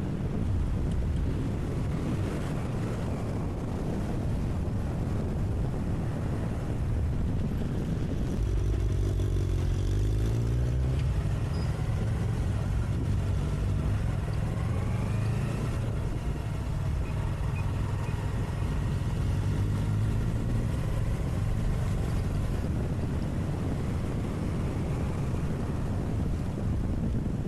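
Motorcycle engine running while riding, with a steady low rumble. Its pitch rises as it accelerates about a third of the way in and again around the middle.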